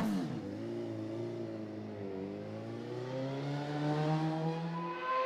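Kawasaki Ninja ZX-RR MotoGP race bike's inline-four engine running on the circuit. Its pitch holds fairly steady, dips briefly, then climbs steadily through the second half as the bike accelerates.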